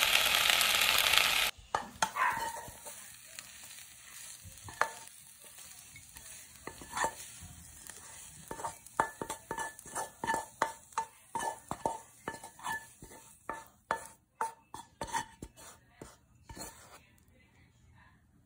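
Chicken and vegetables sizzling in a frying pan for about a second and a half, cutting off suddenly. Then comes a long run of knocks and scrapes of a wooden spatula against the pan, each with a light ring, as the stir-fry is scraped out into a serving bowl. The knocks come thicker in the second half and stop a second or so before the end.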